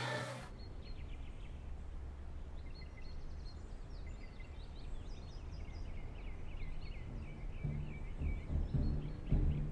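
Small birds chirping in quick runs of short, high notes over a steady low outdoor rumble. Low drum-like music comes in near the end.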